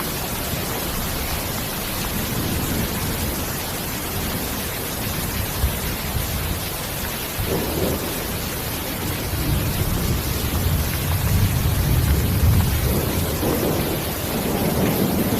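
Steady rain with rolling thunder: a constant rain hiss, with low rumbles swelling in about halfway through and again near the end.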